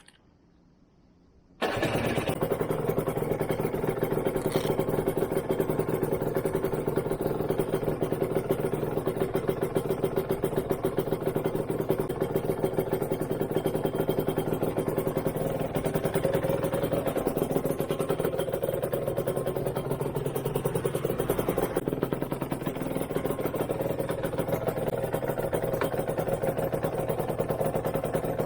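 Aprilia Tuono 125's 125 cc two-stroke single, breathing through a TYGA expansion-chamber exhaust, comes in abruptly about two seconds in and then runs at a steady idle.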